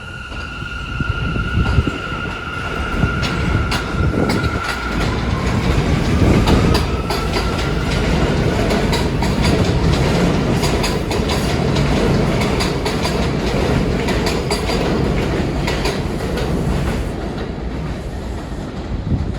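New York City Subway A train running past on the rails, a heavy rumble with rapid clickety-clack of wheels over rail joints. A steady high whine fades out about four seconds in, and a second whine rises in pitch over the next few seconds.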